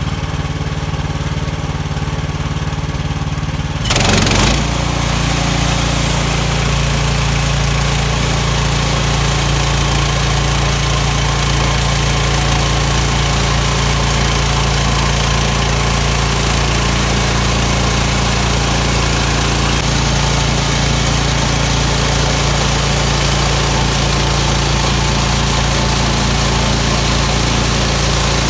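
Sawmill's small gasoline engine running steadily. About four seconds in there is a brief loud noise, and the engine then runs louder with a broad hiss over its note, holding steady after that.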